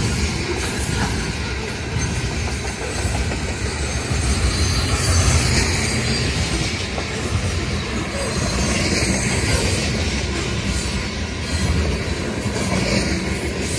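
A freight train of tank cars rolling past close by: a steady rumble and clatter of steel wheels on the rails.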